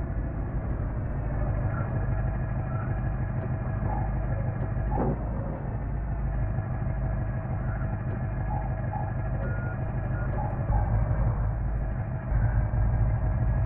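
Truck engine running with a steady low drone, a few short high chirps sounding over it.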